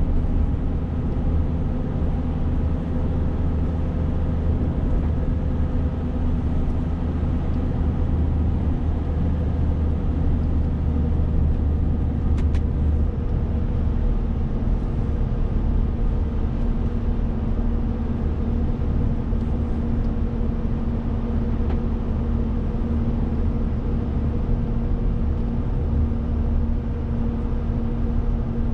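Renault T520 truck's 13-litre six-cylinder diesel engine running steadily while driving, with a low rumble of drivetrain and road noise and a steady drone whose pitch barely changes.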